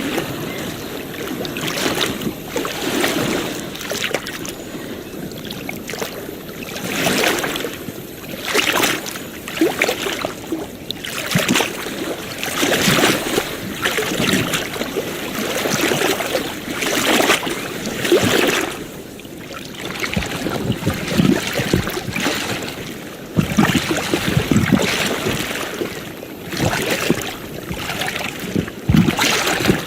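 Small waves lapping and splashing at the water's edge, in irregular surges a second or two apart.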